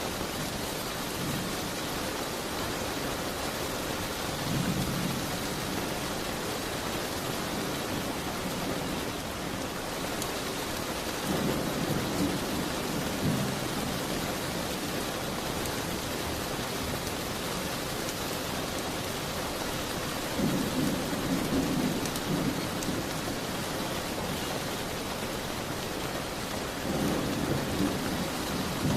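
Steady rain, with low rumbles every seven to nine seconds, each lasting one to three seconds.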